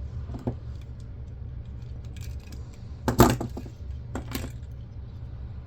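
Clicks and clatter of small hard plastic and metal parts being handled as an old camcorder is taken apart: a few light clicks, then two louder knocks about a second apart, over a steady low hum.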